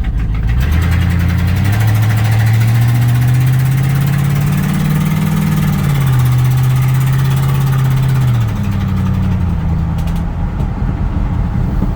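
1984 Chevrolet C10 pickup's 305 V8 pulling away under acceleration, its engine note climbing, dropping back about six seconds in as it shifts up, then easing off about two seconds later as the truck cruises.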